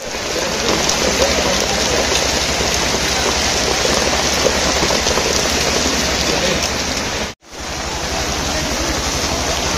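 Heavy rain falling steadily on a wet street, a dense even hiss. The sound cuts out for a split second about seven seconds in.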